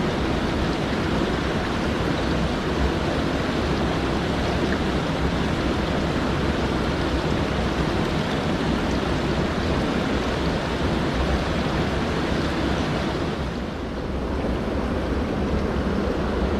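Mountain stream rushing over rocks: a steady, loud rush of water that dips briefly near the end.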